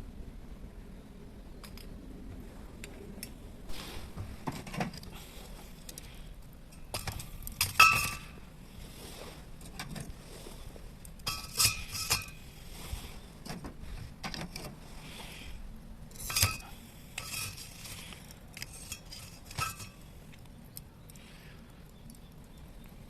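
Camp cookware and utensils being handled: scattered hard clinks and rattles, a few ringing briefly, with the loudest clink about eight seconds in.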